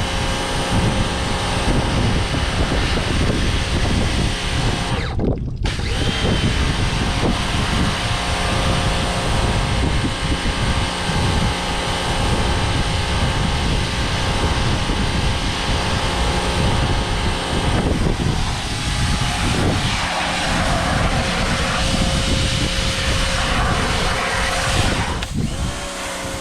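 Pressure washer running: a steady motor drone with constant whine tones over the hiss of the water jet, with a brief dropout about five seconds in.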